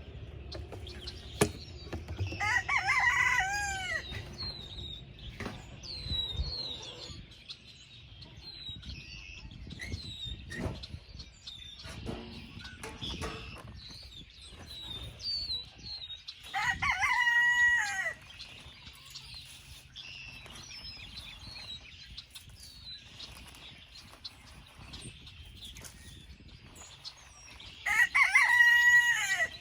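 Rooster crowing three times, each crow about a second and a half long and dropping in pitch at the end, with soft high chirps between the crows.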